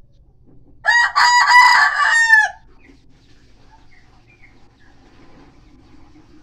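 An ayam kampung (Indonesian native village chicken) rooster crowing once: a single loud call of about a second and a half, starting about a second in and ending on a falling note.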